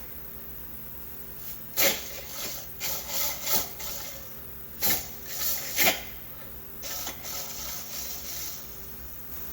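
Irregular scraping and rubbing strokes of a hand tool on metal as the drain hole in the primary case is worked out to a 12.5 mm pilot hole. The strokes come in uneven bursts, the loudest near the second and sixth seconds, followed by softer rubbing.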